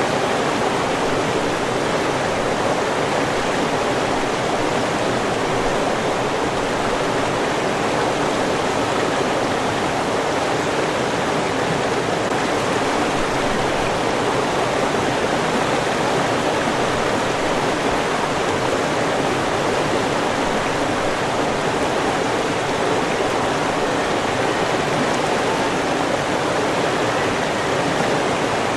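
River water flowing and rushing: a steady, unbroken wash of running water with no birds or other sounds on top.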